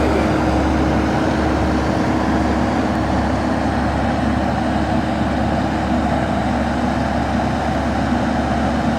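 Excavator's diesel engine running steadily under a working load, with a steady hum over the engine rumble.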